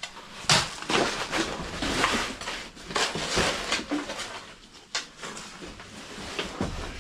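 A series of irregular scraping and crunching strokes, about one every second, with a sharp knock about five seconds in.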